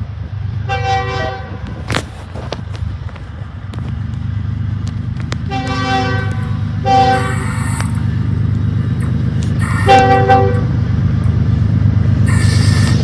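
BNSF ES44AC diesel freight locomotive sounding its multi-chime air horn four times, long, long, short, long, the grade-crossing signal, over the low rumble of its engines, which grows louder as the train draws near.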